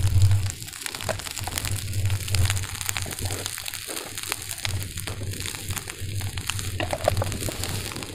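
Fried rice sizzling and crackling in a hot pan, a dense patter of small pops, over a low hum that comes and goes.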